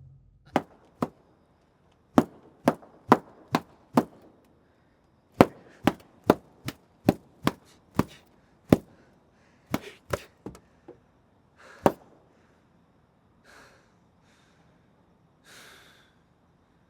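A series of about twenty sharp knocks, mostly about two a second in short runs, followed near the end by a few softer rustling noises.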